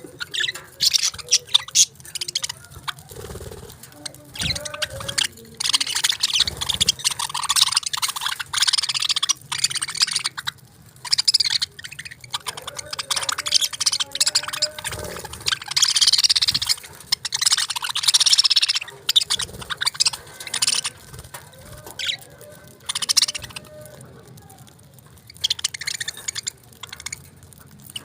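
Budgerigars chirping and chattering: a dense, uneven run of short, quick chirps and clicks, easing off briefly near the end.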